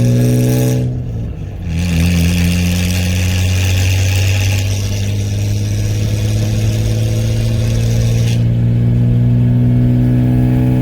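1995 Ford F-150's 4.9-litre straight-six running through 2.5-inch straight pipes, accelerating from a stop with an empty trailer in tow, heard from the cab with the window down. It revs up, drops briefly at an upshift about a second in, then pulls and climbs slowly and steadily in the next gear.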